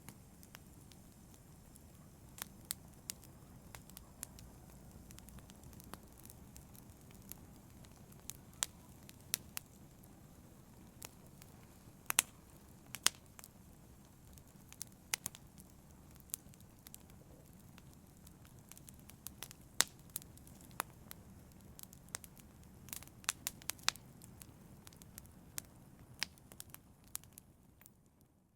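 Wood fire crackling in a fireplace: irregular sharp pops and snaps over a steady low rumble of the flames. The sound fades out at the very end.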